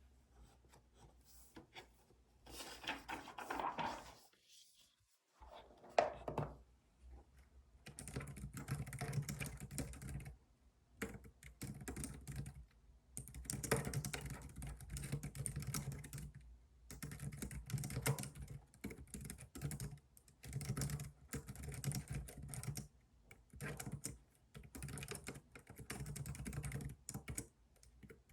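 Typing on a computer keyboard: runs of rapid keystrokes lasting a few seconds each, separated by short pauses.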